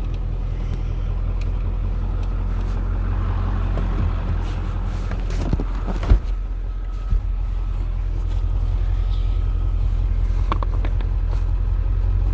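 Ford 7.3-litre Power Stroke V8 turbodiesel truck running steadily on the road, a low drone. A sharp knock about six seconds in and a smaller one about a second later.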